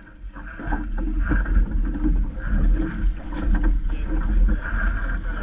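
Wind buffeting the microphone while water splashes and rushes along the hull of a small sailing dinghy under way, with scattered light knocks.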